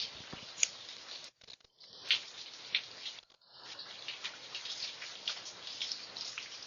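Rain falling steadily, an even hiss dotted with the sharp ticks of single drops striking close by. The sound cuts out briefly twice, about a second and a half and three seconds in.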